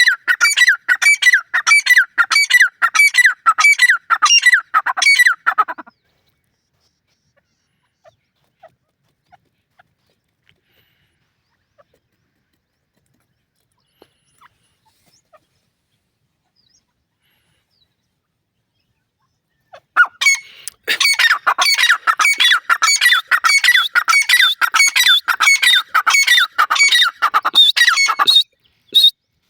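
A teetar (francolin) calling: a loud, rapid run of repeated notes, about two to three a second, for about six seconds. After a long pause with only a few faint clicks, a second run starts about twenty seconds in and breaks up into a few single notes near the end.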